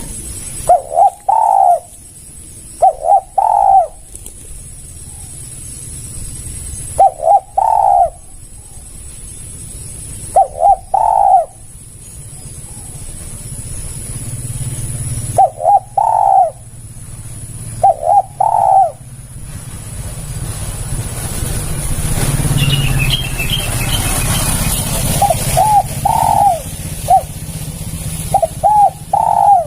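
Spotted dove (tekukur) cooing loudly and close, repeating its short multi-note coo phrase every two to three seconds, with a pause of a few seconds past the middle. Faint high chirps from a small bird come in briefly during that pause.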